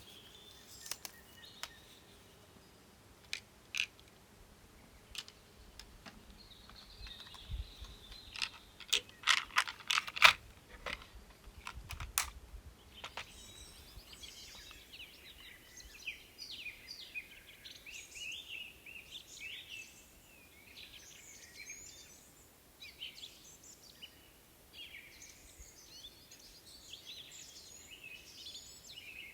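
Scattered light clicks and taps, thickest about nine to twelve seconds in. Then, from about halfway, many small birds chirping and singing rapidly over a steady outdoor hiss.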